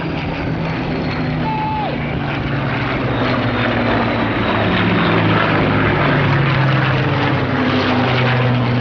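Rolls-Royce Merlin V12 piston engine drone from a Second World War fighter flying a display, steady and growing a little louder a few seconds in, its pitch drifting gently.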